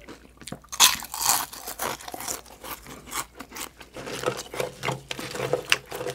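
Close-up crunching of deep-fried chicken skin being chewed, with the crackle of crispy battered pieces pulled apart by hand. The loudest crunches come about a second in.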